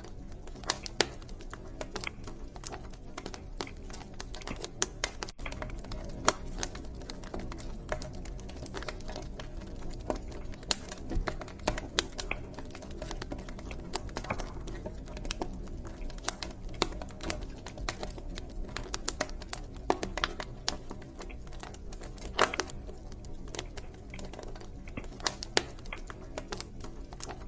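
Wood fire burning in a fireplace, crackling with a dense run of irregular snaps and pops over a steady low rumble of the flames.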